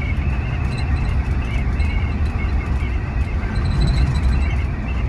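Scania bus on the move: a steady low engine and road rumble, with faint high-pitched squeaks over it.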